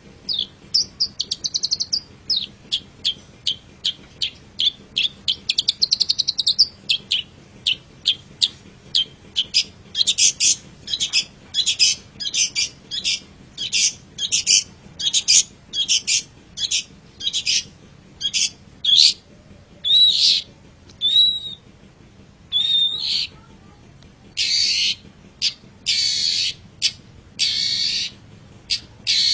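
Long-tailed shrike (cendet) singing in fast, high chattering phrases: quick trilled runs at first, then a steady string of sharp notes about two a second, a few bending whistled notes, and longer harsh rasping calls near the end.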